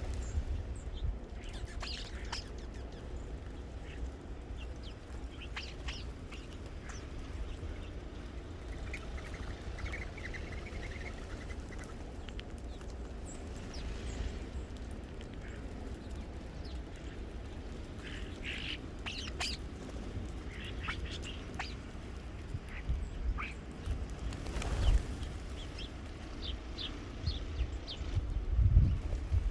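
Birds at a feeder giving short, scattered chirps and calls, with a brief trill about a third of the way in. A steady low rumble lies underneath, and a few low thumps come near the end.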